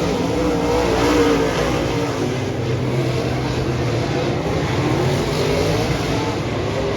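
Dirt Modified race car engines running at racing speed, the engine note rising and falling as the cars accelerate and back off.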